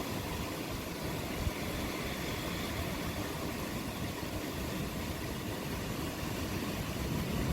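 Steady rain falling, with a low continuous rumble underneath that grows slightly louder near the end as distant thunder builds.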